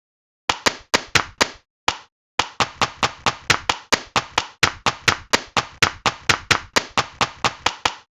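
Hand claps: a few scattered claps, then a steady run of about four claps a second.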